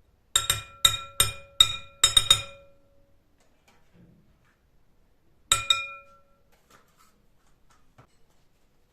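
Glassware clinking: a quick run of about six sharp clinks, each ringing on with the same bright tone, then two more clinks about five and a half seconds in.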